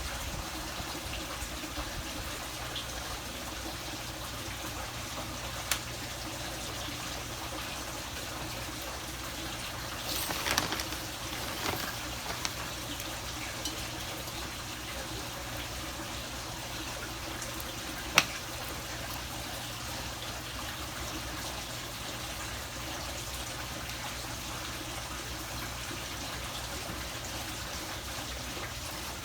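Steady running water, with a few brief clicks and knocks.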